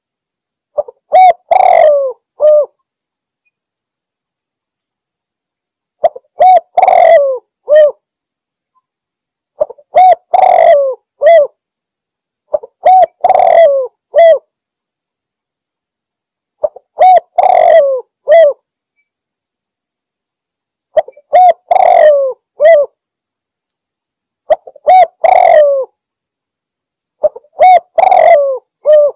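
Spotted dove (tekukur) calling over and over: eight loud phrases of several quick coos each, one every three to four seconds with silence between. This is the call the bird uses to challenge a rival, played as a lure call.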